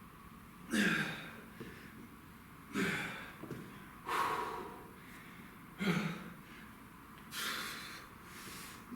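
A man breathing hard under exertion, with five forceful exhales and grunts about a second and a half apart, a few of them voiced. It is the strain of working through single-leg V-up reps while worn out.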